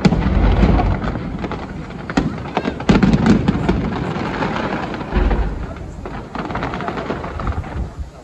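Fireworks display: aerial shells bursting with many sharp cracks and pops over deep booms, the heaviest booms at the start, about three seconds in and about five seconds in, thinning out near the end.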